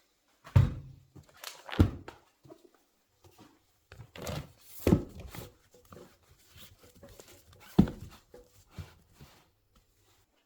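Four loud knocks, spread over several seconds, with softer clattering and handling noise between them in a small room.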